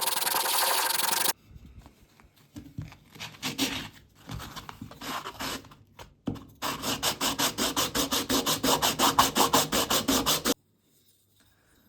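Hand rubbing with an abrasive on a knife. There is a steady scraping rub for about the first second, then slower, uneven strokes. About six and a half seconds in come fast, even back-and-forth strokes, about seven a second, which cut off suddenly near the end.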